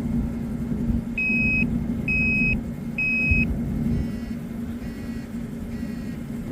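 Toptes CT580 carbon monoxide detector beeping during its power-up self-test: three evenly spaced, high single-pitch beeps of about half a second each, followed by three fainter tones. A steady low hum runs underneath.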